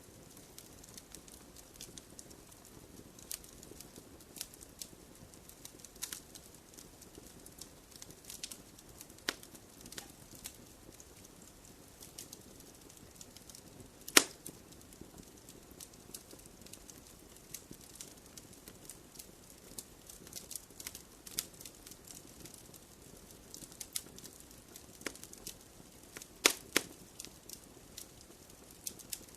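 Wood fire burning in a fireplace, crackling with irregular sharp pops over a soft low rush of flame. One loud pop comes about halfway through, and two more follow close together near the end.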